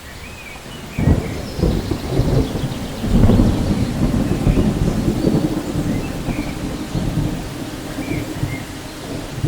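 Steady rain, then about a second in a clap of thunder breaks into a long low rumble that rolls on and slowly eases.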